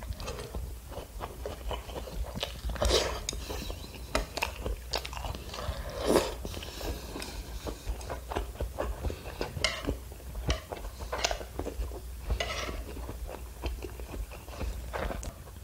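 Close-up chewing of tteokbokki rice cakes in spicy sauce: many irregular small mouth clicks and smacks, with a few louder ones.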